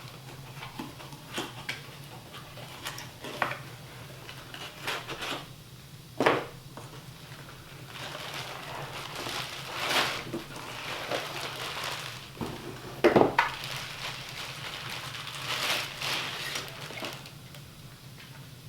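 Irregular knocks, clicks and clatter with a few longer scraping or rustling stretches, over a steady low hum.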